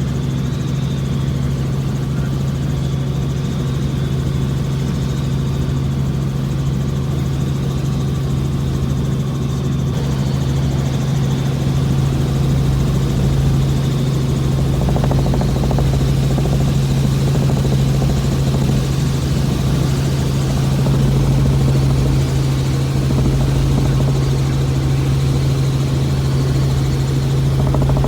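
Helicopter in flight: a loud, steady engine and rotor drone with a strong low hum that holds level.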